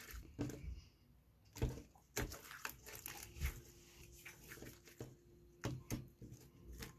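Slime being squished and pulled by hand, giving scattered soft clicks and crackles.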